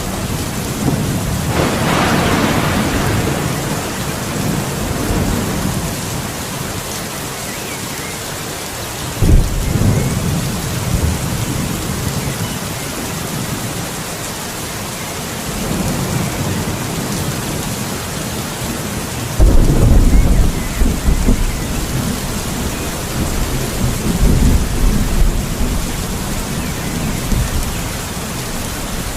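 Steady rain with thunder rumbling several times: a sharper crack about two seconds in, another rumble near ten seconds, and a long rolling rumble through the second half.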